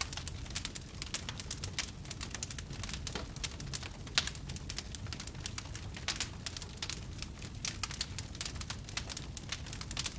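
Wood fire burning, with many irregular crackles and pops over a low rumble of the flames; one louder pop about four seconds in.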